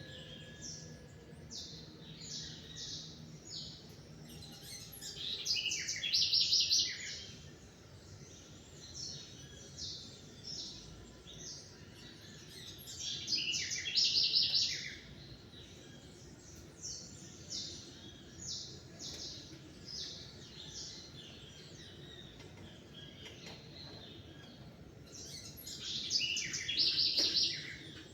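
Songbirds chirping at dawn, short scattered calls throughout, with a louder, rapid trilled song phrase of about two seconds three times.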